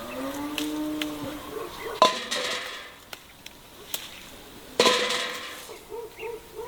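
Two loud clanks of pots or dishes being knocked together, about three seconds apart, each ringing briefly, with a lighter click between them.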